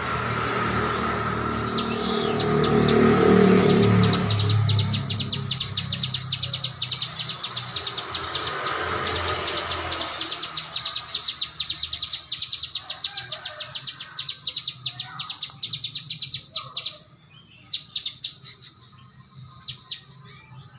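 A small songbird singing a fast, rattling run of short high notes, several a second, the rapid 'tembakan' style of song used as a training track for cage birds. The run thins out and stops near the end, and a low rumble sits under the first half.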